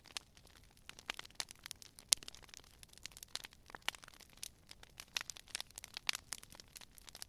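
Wood fire crackling: irregular sharp pops and snaps, several a second, with one louder pop about two seconds in, over a faint low hiss.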